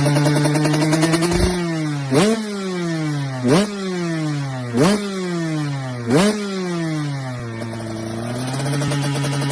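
Motorcycle engine running steadily, then revved in four sharp throttle blips about a second and a half apart, each rising quickly and falling back slowly, before settling to a steady run again near the end.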